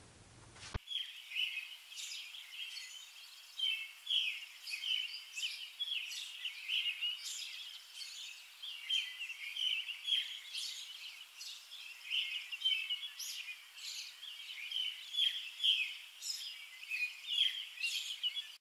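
Small songbirds chirping: a dense, continuous run of short high calls, starting just under a second in.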